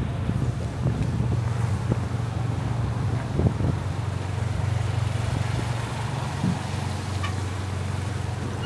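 Steady low drone of a motor vehicle's engine close by, with wind buffeting the microphone.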